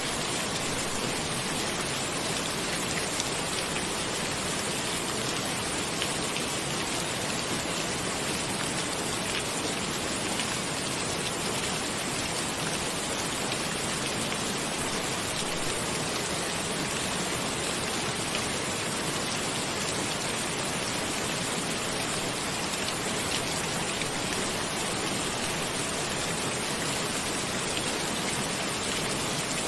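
Steady, even rain, a constant hiss with faint scattered drop ticks.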